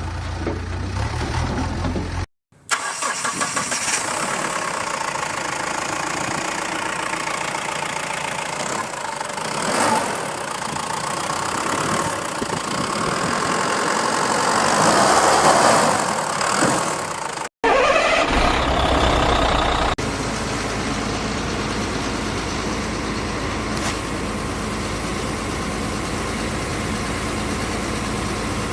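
Vehicle engine running, in three stretches broken by abrupt cuts about two and a half and seventeen and a half seconds in; the middle stretch swells louder around fifteen seconds in, then drops.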